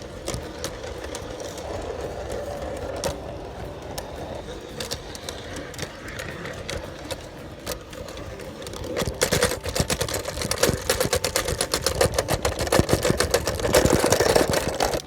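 G scale garden train running on its track, heard from a phone riding on the train: a rapid clatter of wheels clicking over the rails and joints over a steady motor hum. The clicks come thicker and louder from about nine seconds in.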